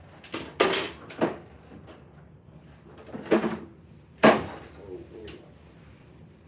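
About six sharp wooden knocks as boards are handled, each short with a brief ring after it. The loudest comes about four seconds in.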